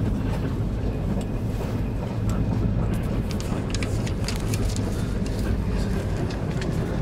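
Steady low rumble of a passenger train running along the track, with light clicking rattles coming in through the second half.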